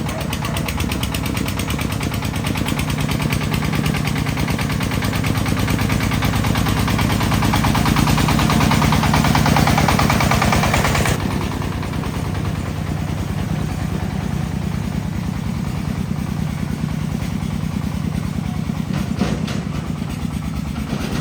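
A vehicle engine running, growing louder over the first ten seconds, then dropping abruptly and carrying on more quietly.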